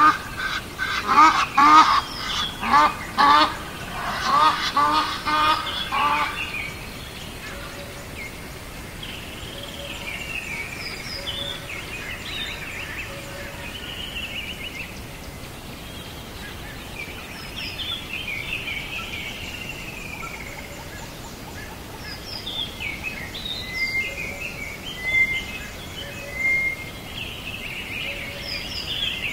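Waterfowl calling in a rapid, loud run of calls, a few a second, for about the first six seconds. Then softer chirps and song phrases of small birds.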